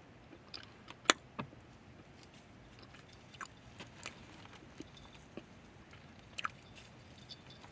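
Chunks of cornstarch being bitten and chewed: scattered sharp crunches, the loudest about a second in and another pair past the six-second mark.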